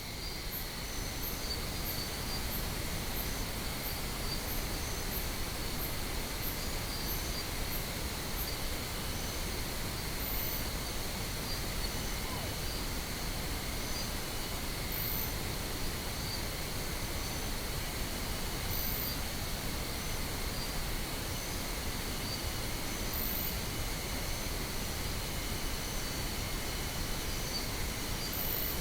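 Steady pink noise that comes in at the start and holds an even hiss, over a bed of crickets chirping with short high ticks.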